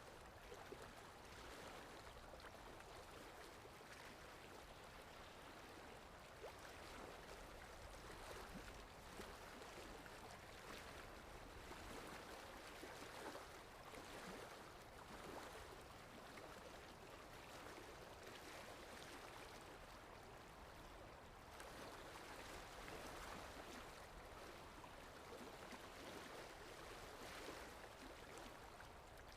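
Faint sea water washing gently, a steady wash that slowly swells and eases every several seconds.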